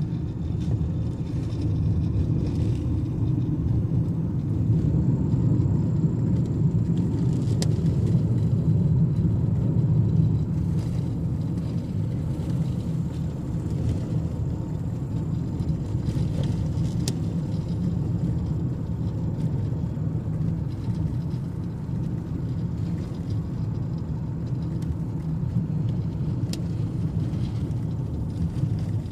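Inside a moving car: steady low road and engine rumble while driving, with a few faint ticks.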